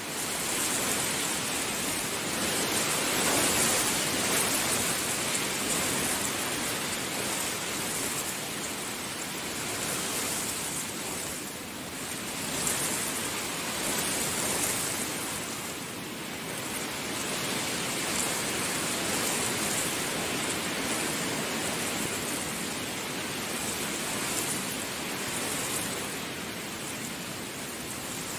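Heavy rain falling steadily, a dense hiss of drops that swells and eases every few seconds.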